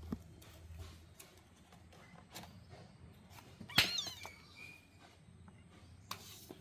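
A kitten gives one short, high-pitched mew a little under four seconds in, its pitch sliding down. Faint scattered scratches and taps from the kittens playing are heard around it.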